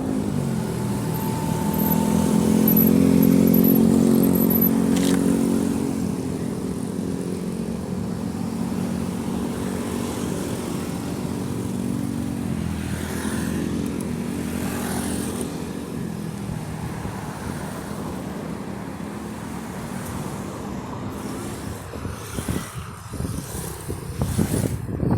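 Road traffic: a motor vehicle's engine passing close, loudest about three seconds in, then fading to steadier, fainter engine noise from other vehicles.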